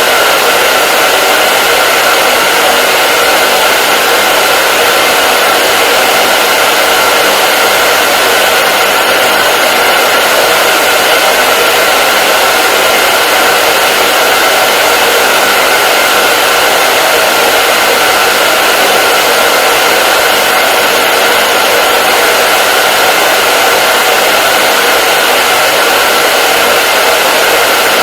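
Hair dryer running steadily: a loud, even blowing hiss with a steady whine from its motor and fan.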